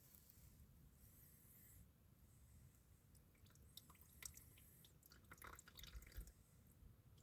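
Faint drips and small splashes of watery, sludgy oil draining from a tractor crankcase into a container, scattered and irregular, most of them in the second half.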